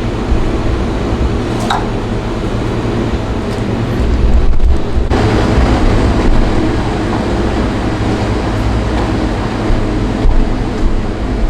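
Steady low mechanical hum and rumble, louder for about a second around four seconds in, with a single short click early on.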